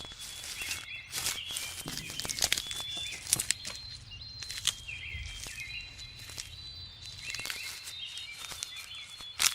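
Small birds chirping in short repeated phrases over a thin, steady high whistle, with rustling and scattered sharp clicks; one loud click comes near the end.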